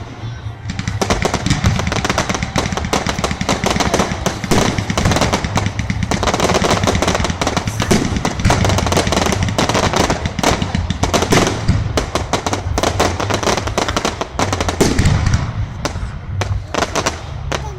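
Fireworks going off in a long, rapid barrage of crackling bangs, so dense that the reports run together.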